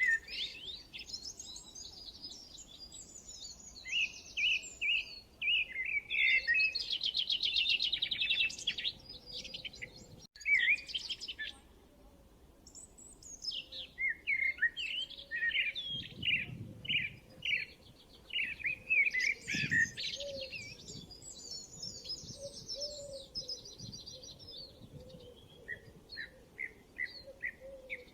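Several songbirds singing and chirping in phrases separated by pauses, some phrases with fast trills.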